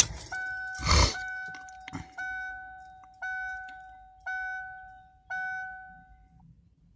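Dashboard warning chime of a 1994 Ford F-350 dinging five times, about once a second, each ding fading away. There is a short loud thud about a second in.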